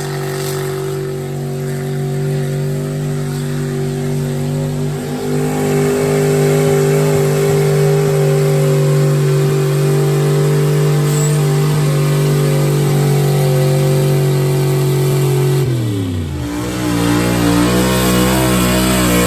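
Truck engine held at high revs under load, as in pulling a weight sled, at a steady pitch for about fifteen seconds. Then the revs drop sharply, and the engine runs on lower and unevenly.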